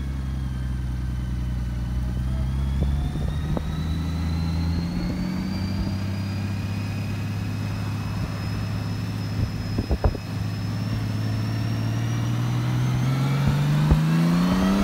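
Honda Gold Wing motorcycle engine running steadily on the road, its pitch climbing over the last few seconds as it accelerates. A few short knocks sound about ten seconds in.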